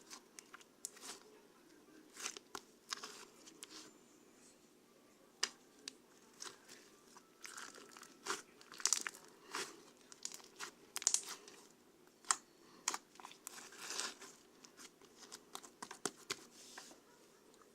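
Irregular close-up crinkling, crackling and tearing of something being handled, in a quick uneven run of sharp crackles.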